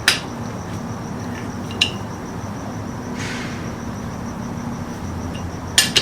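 Metal fork parts clinking as they are handled: a sharp clink at the start, another about two seconds in, and two quick ones near the end, with a short scraping hiss in the middle. A steady low hum runs underneath.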